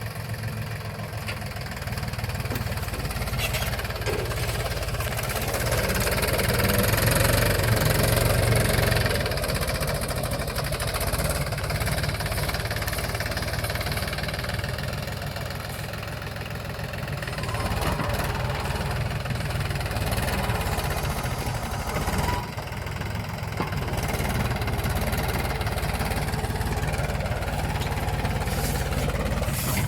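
Mahindra tractor's diesel engine running with a steady low, knocking chug. It gets louder for a few seconds about a quarter of the way in, as if working under load.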